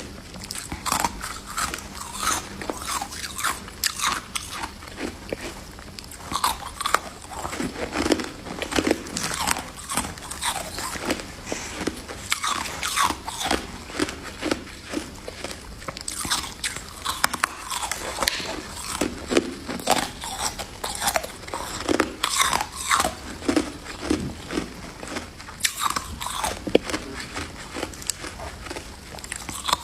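Freezer frost ice being bitten and chewed, a steady run of sharp, irregular crunches several times a second.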